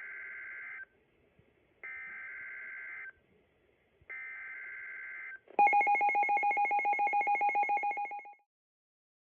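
Emergency Alert System SAME header: three identical bursts of warbling digital data tones, each about a second long, followed by a louder, rapidly pulsing alert tone of about nine beeps a second that stops around three seconds later.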